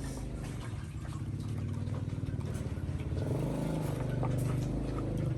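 An engine running steadily, a little louder from about three seconds in.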